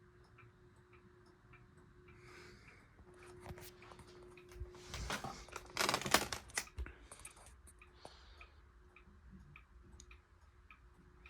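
SMC A52 ceiling fan motor running with a steady low 60-cycle hum, a clock ticking evenly beside it. From about four and a half to seven seconds in, a cluster of sharp clicks and knocks rises over it, loudest around six seconds, while the hum briefly drops out.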